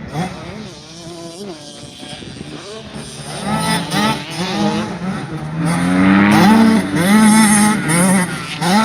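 Small youth dirt bike engine revving on the track, its pitch climbing and dropping back again and again as the throttle opens and closes. It is fainter at first and grows louder from about halfway through.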